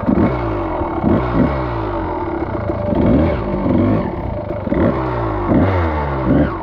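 Dirt bike engine running and being blipped: its pitch rises and falls sharply about once a second, in repeated short revs.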